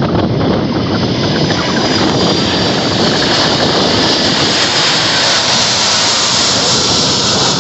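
Jet airliner passing low overhead on landing approach: loud, steady jet engine noise with a high whine that builds from about two seconds in, over wind buffeting the microphone.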